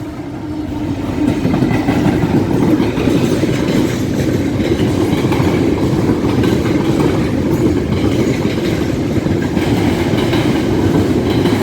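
Freight train hauled by a Class 66 diesel locomotive passing at close range, its wagons rumbling and clattering over the rails. The noise builds over the first second or two, then holds steady.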